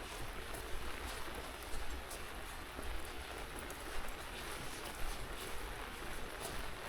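Light rain falling outdoors: a steady hiss with scattered small taps, over a low rumble.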